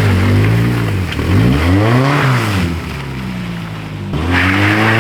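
Mega Moto 212 mini bike's small single-cylinder engine straining under load on a tow rope, its revs rising and falling twice. About four seconds in it jumps abruptly to a steady high rev.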